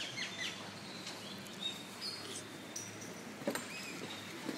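Birds chirping and calling in short high whistles over a steady background hiss, with a sharp knock about three and a half seconds in and another near the end.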